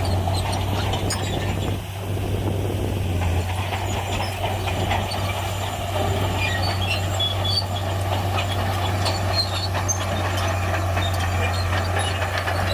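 Shantui crawler bulldozer's diesel engine running with a steady low hum, with scattered metallic clinks and squeaks from the machine as it works. The sound dips briefly about two seconds in.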